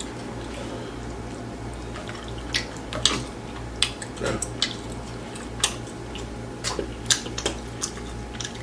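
Close-miked wet chewing and mouth smacks of someone eating grilled chicken, a run of short sharp clicks starting about two and a half seconds in, over a steady low electrical hum.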